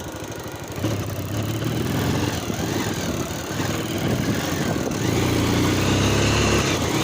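Motorcycle engine running as the bike rides along a rough trail, getting louder about a second in and louder again around five seconds in.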